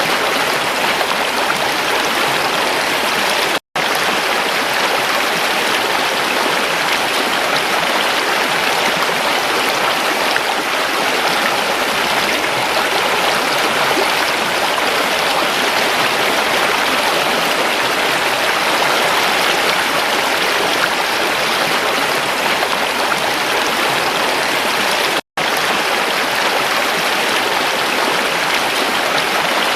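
A creek's water rushing steadily over rocks, an even, unbroken rush that twice cuts out to silence for an instant.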